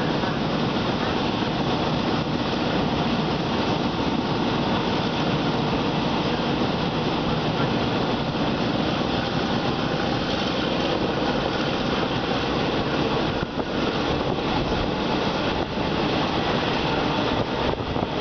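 Thai passenger train number 259 running along the line: a steady rumble of wheels on rail mixed with rushing air, heard from a carriage window.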